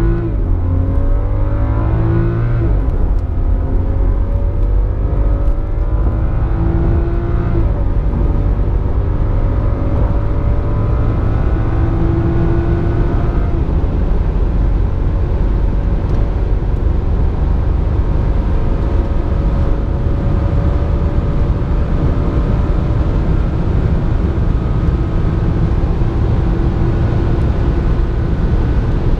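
BMW 535i (F10)'s turbocharged 3.0-litre inline-six accelerating at full throttle, heard from inside the cabin. The engine note climbs in pitch and drops back with an upshift of the automatic gearbox three times in the first half, then rises slowly in a high gear, over a loud road and wind roar.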